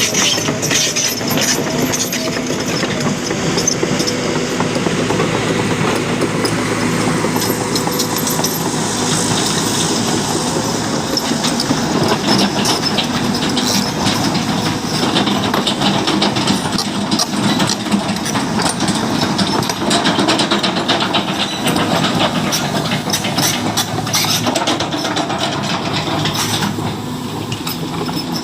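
Heavy truck engine running with continuous metallic clanking and rattling.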